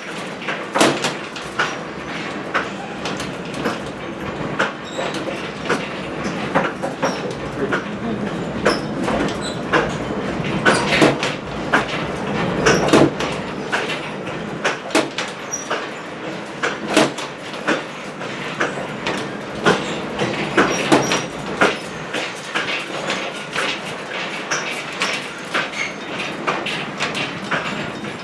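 Railroad passenger coach rolling along the track, a steady rumble with frequent irregular clicks, knocks and rattles from the wheels, car body and couplings.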